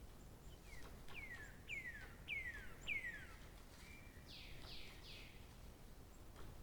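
A songbird singing: a series of five clear whistles, each falling in pitch and coming about twice a second, followed by a short even note and three broader falling notes.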